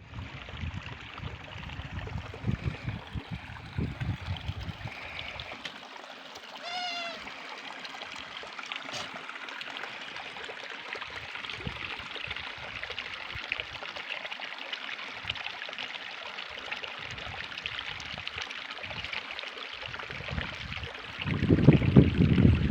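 Stream water flowing steadily in a gorge. A single short high call with a bend in pitch comes about seven seconds in. Low rumbling is heard near the start and loudest shortly before the end.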